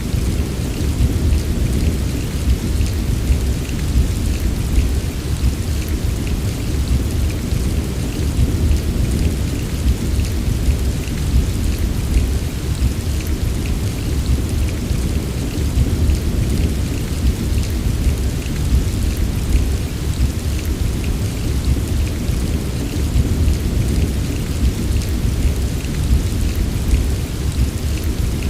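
Rainstorm recording: steady heavy rain with a constant deep rumble underneath and scattered drop ticks above, with no distinct thunderclap.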